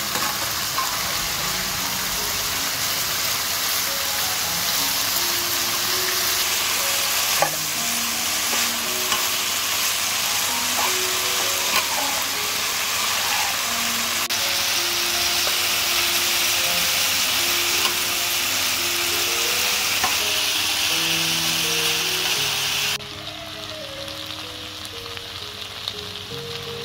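Chicken and water spinach stems sizzling in oil in a frying pan while a metal spatula stirs and tosses them, with a few sharp clicks of the spatula against the pan. The sizzle drops sharply about 23 seconds in.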